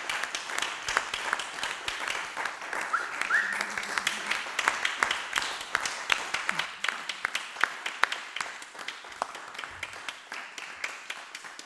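Audience applauding: a dense patter of hand claps that gradually thins out and grows quieter toward the end.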